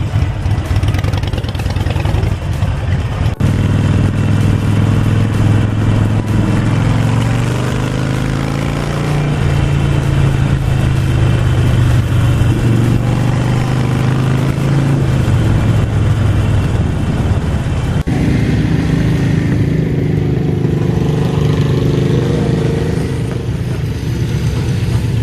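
Harley-Davidson 48 Sportster's V-twin engine running on the road, its pitch rising as it accelerates, holding, then dropping, with wind noise over it. The sound changes abruptly twice, about three seconds in and again about eighteen seconds in.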